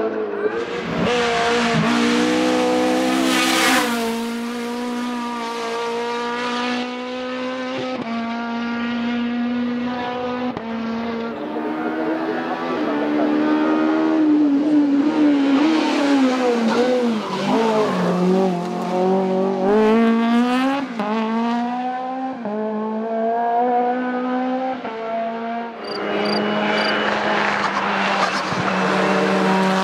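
Race car engine at full throttle, revving up and dropping in pitch at each gear change, with the note wavering as the car goes through bends.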